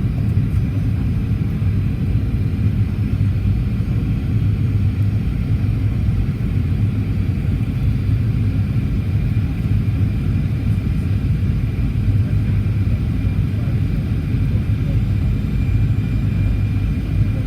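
Steady low rumble of a Boeing 737-800's engines and airflow heard inside the passenger cabin, with a faint thin high whine over it.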